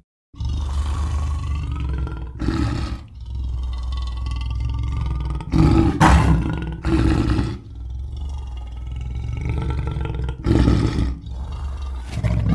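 Lion roars and growls used as film sound effects: a deep, continuous rumbling growl swelling into louder roars every few seconds, about five peaks in all.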